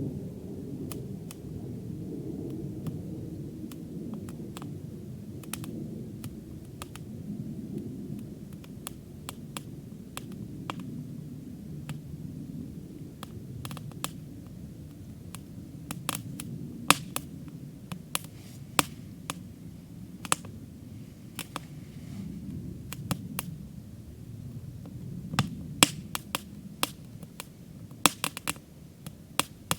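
Wood campfire crackling: sharp irregular pops and snaps, coming more often in the second half, over a low steady rumble.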